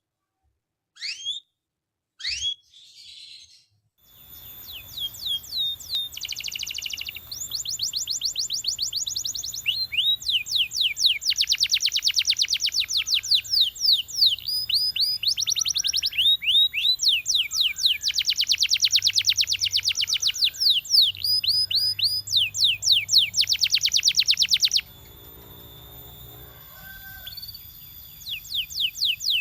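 Canary singing. A few short rising calls open it, then from about four seconds it runs into a long song of fast trills, each a run of rapid rising notes. The song breaks off for a few seconds near the end, then starts again.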